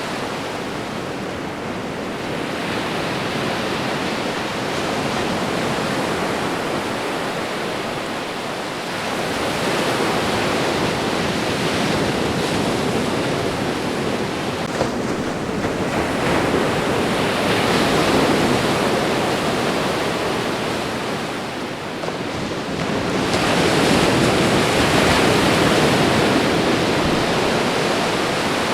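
Ocean waves washing onto a shore: a continuous rush of surf that swells louder with each incoming wave, about every seven seconds.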